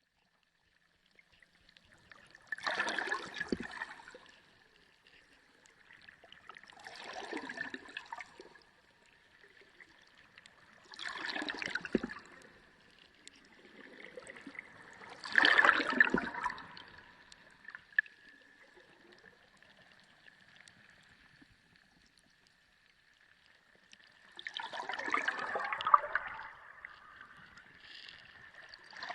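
Underwater sea sound: water gurgling and bubbling in surges every few seconds, the loudest about halfway through, over a faint steady high tone.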